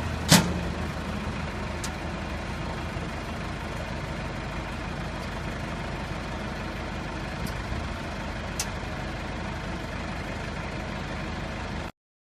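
Wrecker truck engine idling steadily, with one sharp knock just after the start and a few faint clicks later. The sound cuts off abruptly near the end.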